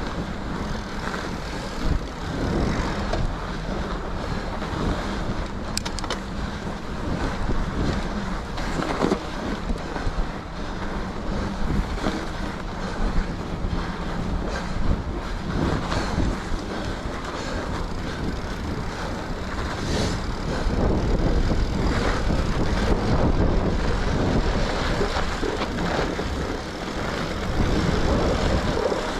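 Mountain bike riding over a groomed snow trail: the 2.8-inch tyres roll over packed snow and the bike rattles, with wind noise on the microphone. Occasional short knocks come from bumps in the trail.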